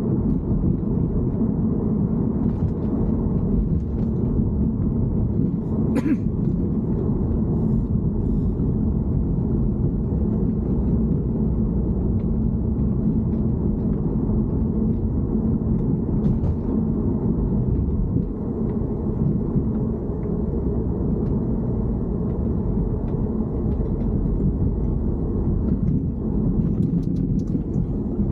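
BMW E90 running, a steady low rumble, recorded while chasing an abnormal noise. Two brief clicks come through, one about a fifth of the way in and another just past halfway.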